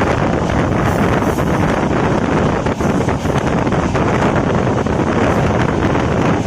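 A passenger train running at speed, heard from on board, with heavy wind buffeting the microphone. It is a steady, dense rush with faint irregular clicks from the track.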